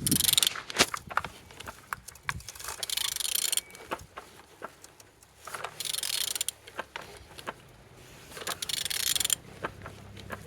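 A Renault K9K 1.5 dCi diesel engine being turned over by hand: scattered clicks and knocks from the turning tool and the engine's internals, with a short rush of hiss about every three seconds. The engine turns freely and is not seized.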